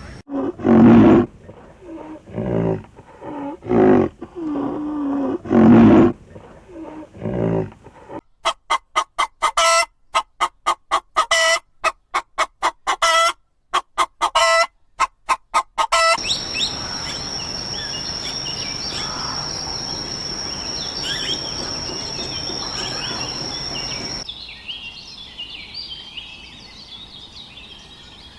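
Poultry calling: several loud calls, then from about eight seconds a fast run of repeated sharp clucks or chirps, two to three a second. About halfway through this gives way to outdoor ambience with a steady high-pitched whine and scattered bird chirps, and softer birdsong near the end.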